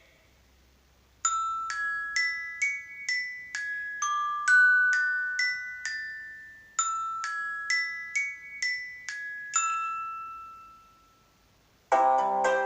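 An iPhone ringtone: a short tune of struck, bell-like glockenspiel notes, each ringing out, played as two similar phrases and then dying away. Near the end the next ringtone starts, a denser plucked-string tune.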